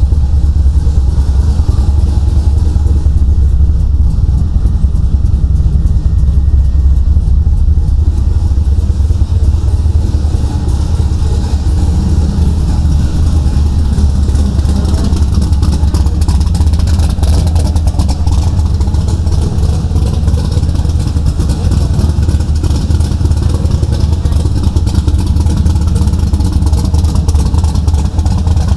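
Car engine running steadily at idle, a deep, loud, even rumble.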